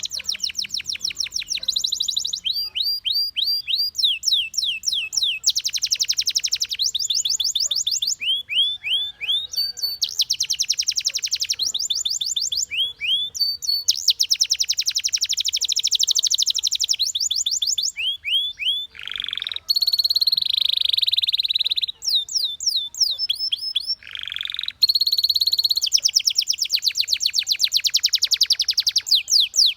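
Domestic canary singing: rapid trills of repeated rising notes, alternating with buzzy rolls held for a second or two.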